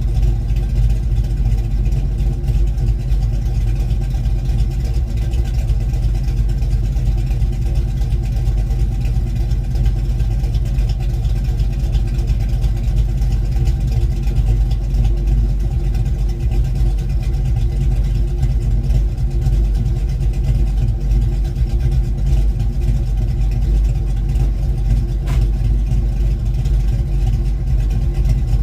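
1972 Mustang Mach 1's V8 running steadily through a single 3-inch exhaust with a Black Widow Race Venom muffler, with the lopey note of a Crane aftermarket cam; the new muffler is pretty loud.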